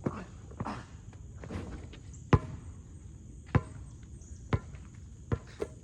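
A basketball bouncing hard on pavement, about six bounces roughly a second apart. A steady high insect buzz runs behind it.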